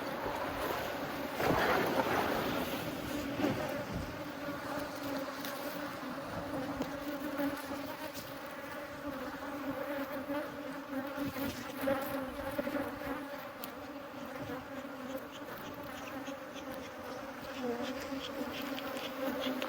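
Disturbed honeybees buzzing in a steady swarm around the beekeeper, a colony stirred up by having its hive boxes moved. A few brief knocks sound over the buzz.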